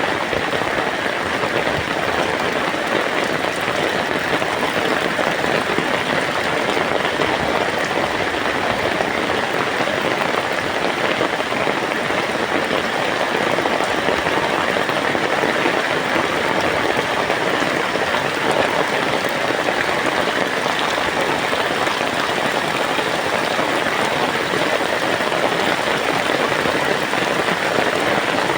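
Heavy rain falling steadily: a dense, even patter of raindrops.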